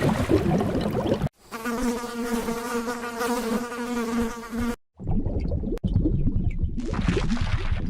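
A flying insect buzzing steadily for about three seconds. Before and after it are short clips of other rough, low animal sounds, each starting and stopping abruptly.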